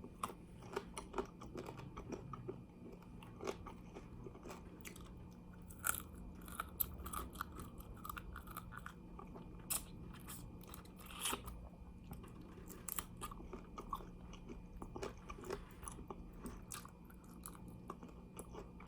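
Close-up chewing and crunching of fried chicken wings, with the bones and cartilage cracking between the teeth in irregular sharp crunches. A faint steady hum lies underneath.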